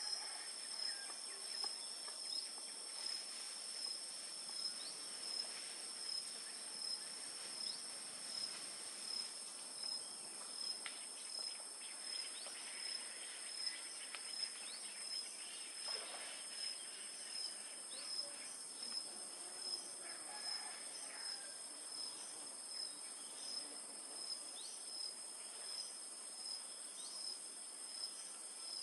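Steady high-pitched insect chorus, crickets trilling with a regular pulse a little over once a second. Over it come thin, short, high peeps every few seconds, the calls of an orphaned baby bird.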